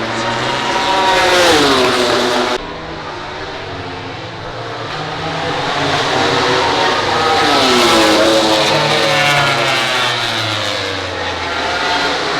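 MotoGP racing motorcycle engines at high revs, their pitch falling as the bikes go by. About two and a half seconds in, the sound drops abruptly, then another bike's engine swells and falls in pitch around eight seconds in.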